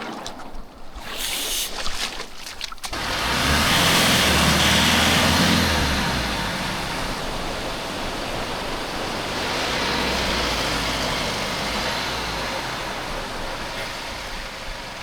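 Rushing surf and wind noise swelling about three seconds in, with a vehicle engine running low underneath.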